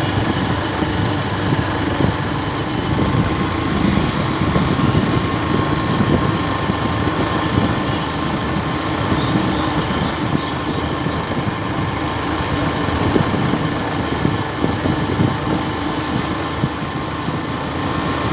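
Motor vehicle engine running steadily while on the move, with a constant rush of road and wind noise.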